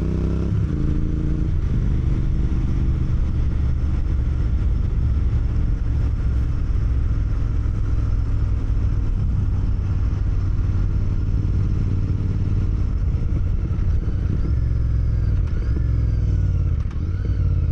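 Royal Enfield GT 650's parallel-twin engine running under way, with its pitch rising as the bike accelerates about a second in and again near the end.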